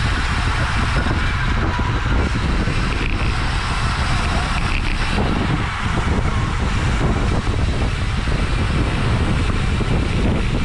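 Steady wind rush buffeting the microphone of a camera riding on a racing bicycle at criterium speed.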